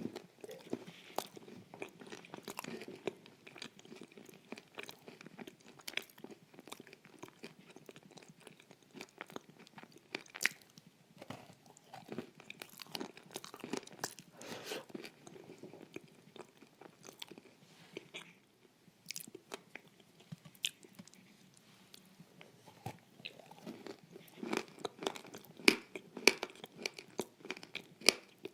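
A person chewing and crunching food close to the microphone: irregular crackly crunches and mouth sounds, with a short lull a little past the middle and louder crunches near the end.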